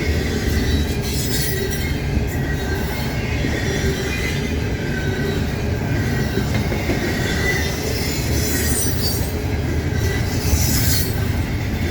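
Intermodal freight train's stack cars rolling past at about 30 mph: a steady rumble of wheels on rail with faint high wheel squeal.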